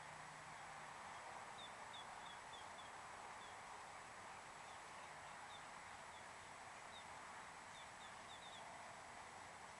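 Faint outdoor ambience: a steady low hiss with a small bird giving short, high chirps, a quick run of them about two seconds in and another cluster near the end.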